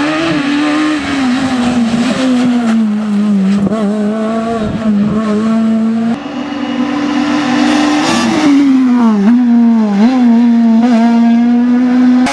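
Super 1600 rally car's high-revving 1.6-litre naturally aspirated four-cylinder engine at full throttle on a stage, the note holding high with brief dips and rises as the driver lifts and shifts. The sound changes abruptly about six seconds in, where a second passage of engine sound begins.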